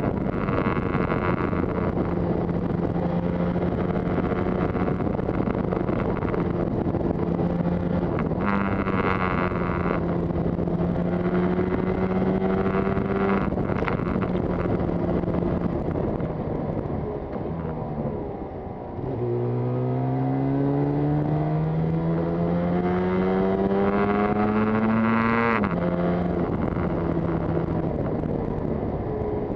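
Yamaha TZR250 two-stroke twin engine heard while riding, with wind noise. The engine note holds fairly steady through the first half, shifting pitch at gear changes. It eases off and goes quieter about two-thirds through, then rises steadily under acceleration before dropping at an upshift near the end.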